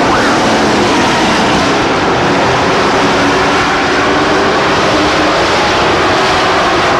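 Race trucks' engines running at speed on the track, a steady loud din of several engines with no single one standing out.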